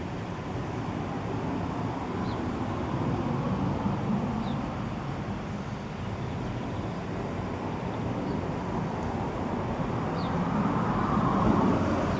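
Steady rumble of road traffic that swells as a vehicle passes near the end, with a few faint, brief high bird chirps over it.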